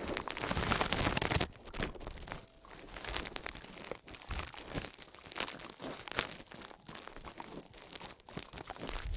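Close-miked ASMR trigger sounds: dense crackling and scratching, loudest in the first second and a half, then a steadier run of small clicks and rustles.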